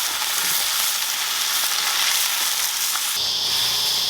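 Lamb and rosemary sausages sizzling as they fry, a steady crackling hiss. A little after three seconds in, the sound switches abruptly to a steady high-pitched drone with a low hum beneath it.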